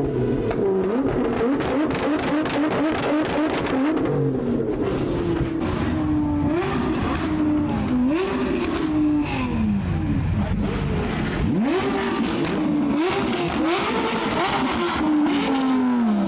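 Supercar engines revving hard, over and over: a fast stuttering pulse for the first few seconds, then repeated revs that climb and drop back every second or two, with sharp exhaust cracks.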